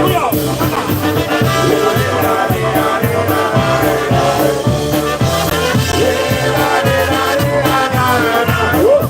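Live polka band playing, with horn lines over a steady bass beat.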